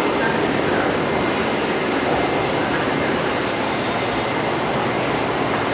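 A JR E233-1000 series electric train pulls into the platform, giving a steady noise of wheels and running gear on the rails.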